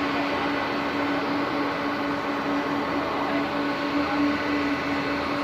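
Aircraft engines running steadily: a constant hiss with a steady droning tone underneath.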